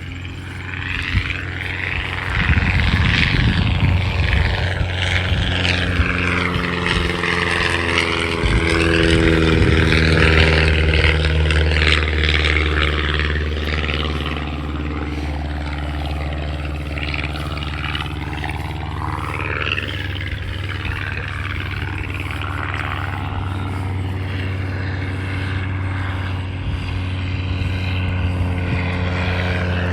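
A propeller airplane's piston engine running steadily nearby. It grows louder around ten seconds in, and its tone shifts as the aircraft moves.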